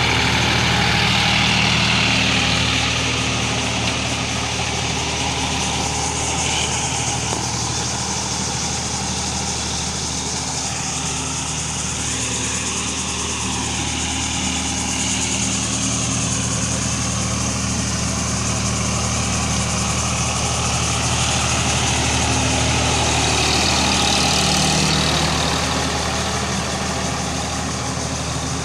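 Sonalika Supreme DI 50 HP RX tractor's diesel engine running steadily at an even speed.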